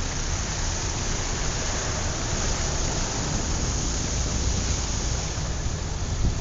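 Steady rushing noise with a flickering low rumble, wind buffeting the microphone.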